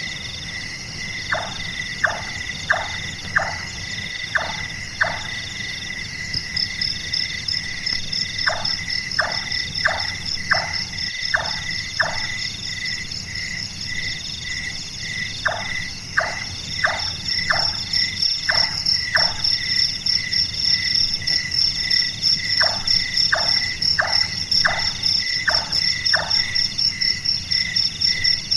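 Large-tailed nightjar calling: bouts of about six knocking 'chonk' notes, roughly two a second, like a carpenter hammering, repeated every several seconds. Under it runs a steady chorus of night insects and frogs, with a fast high trill joining a few seconds in and getting louder past the middle.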